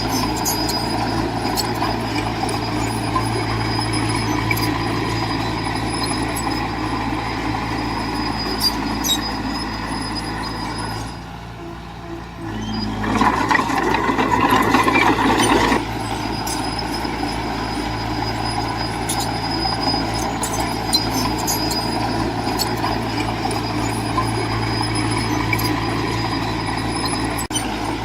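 Heavy diesel engine of earthmoving machinery running steadily, with scattered clanks. About halfway through it drops away briefly, then comes back in a louder, noisier surge for about three seconds before settling to its steady run.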